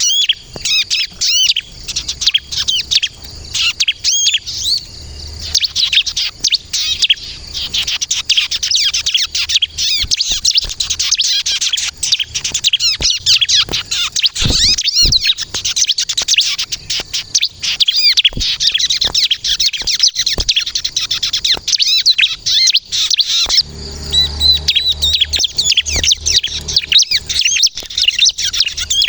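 Bar-winged prinia (ciblek) singing without a break: a dense, rapid stream of high twittering notes with quick pitch sweeps. A low hum runs underneath for the last few seconds.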